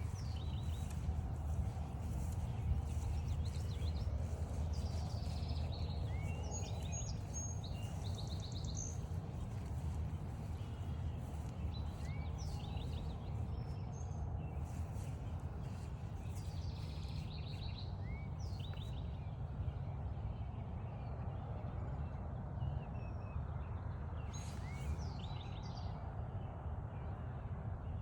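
Footsteps along a woodland trail under birdsong: one bird repeats a short song about every six seconds, a rising note followed by a quick run of higher notes, with other birds calling faintly.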